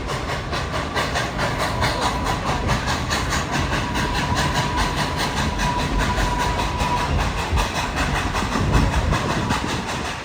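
Steam locomotive No. 192 pulling its passenger train uphill, heard from aboard the train: a steady, rhythmic rattle and clatter of the engine and cars on the track.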